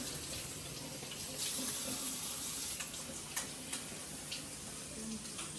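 Water running from a kitchen tap into a sink as a steady hiss, with a few light clinks of dishes.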